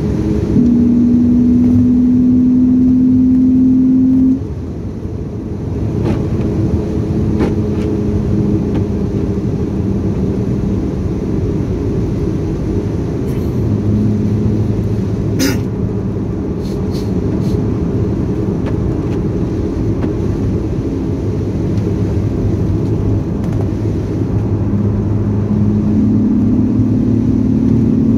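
BMW Z4 3.0i's M54 straight-six heard from inside the cabin under road and tyre noise. It pulls hard at a steady, slowly rising pitch for about four seconds, drops back when the throttle is lifted, cruises at a lower steady note, and climbs in pitch again near the end as it accelerates.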